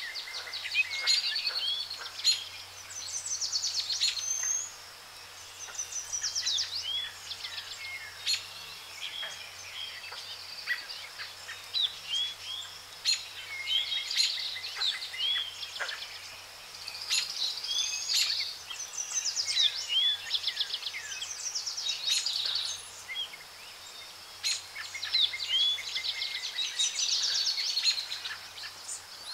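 Birds singing and calling: quick trills, chirps and short rising and falling whistles, coming in bouts every few seconds, over a faint steady low hum.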